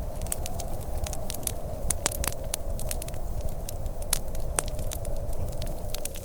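Wood fire crackling, with frequent sharp pops and snaps, over a steady low rumble.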